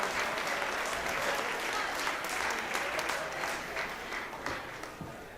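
Audience applauding and cheering after a song, the clapping dying away near the end.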